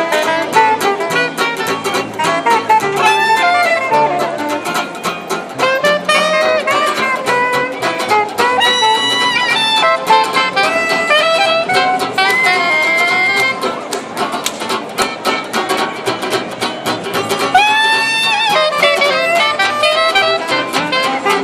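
Street band playing a lively tune, a wavering melody line over a steady beat.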